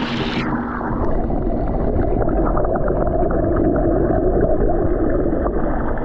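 Muffled rushing and gurgling of pump-circulated water in a tank, heard with the microphone under water, with many small ticks. The clear, open sound drops away about half a second in as the microphone goes under.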